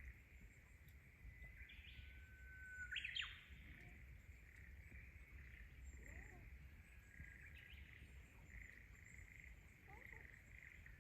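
Faint outdoor ambience: a steady, pulsing chirring of small creatures with a sharper bird-like call about three seconds in, over a low rumble.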